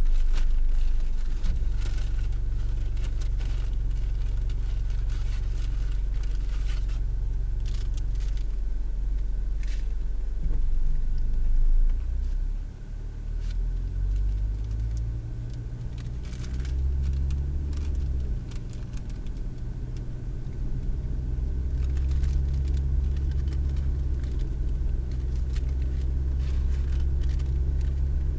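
Car engine and road rumble heard from inside the cabin. The rumble dips briefly about halfway through, then the engine pitch rises as the car speeds up. Scattered light clicks sound over it.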